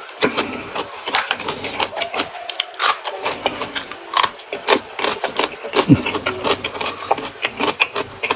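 Close-miked eating: chewing and crunching food, with irregular crisp crunches and wet mouth clicks.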